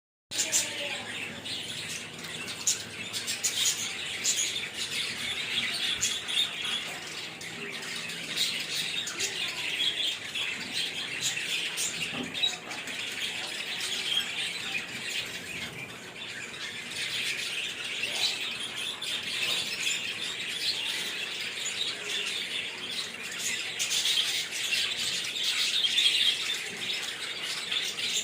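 A flock of caged lovebirds chirping and squawking together in a dense, unbroken high-pitched chatter.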